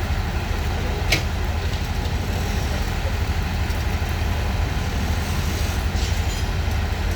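Steady low rumble of passing vehicles, with a single sharp click about a second in.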